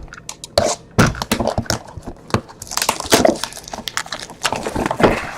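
Trading cards and plastic card holders being handled and sorted on a table: a run of quick clicks, taps and rustles.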